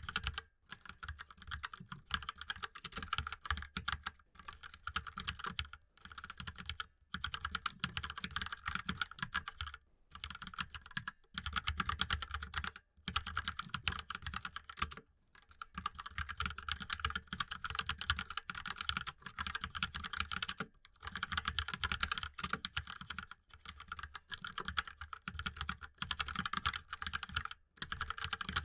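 Mechanical keyboard being typed on: a rapid, continuous run of keystroke clicks, broken by brief pauses every second or two.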